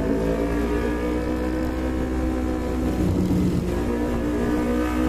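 Yamaha MT-25 motorcycle's parallel-twin engine running at steady revs while riding, with a low rumble of wind and road noise.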